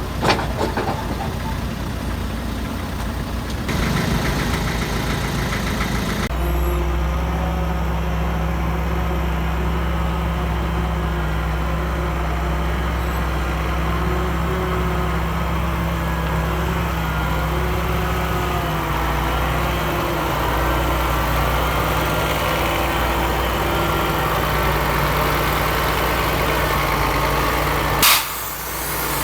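Diesel engine of heavy earthmoving machinery running at a steady speed. The sound changes abruptly twice in the first six seconds, and a single sharp crack comes near the end.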